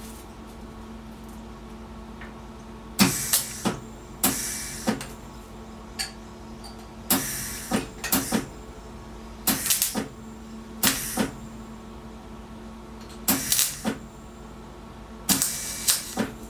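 MIG welder laying short tack welds on sheet-metal patch panel, a dozen or so brief crackling bursts in irregular groups starting about three seconds in, over a steady hum. The welds are not taking well, which the welder puts down to a galvanized coating on the new metal.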